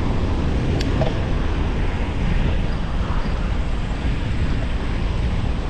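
Steady wind rushing over the microphone of a camera riding along on a moving road bicycle, with one brief click a little under a second in.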